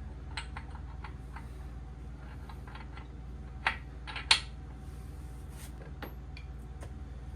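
Light metal clicks and taps from tools and engine parts being handled during engine assembly, with two sharper, louder clicks a little past the middle, over a steady low hum.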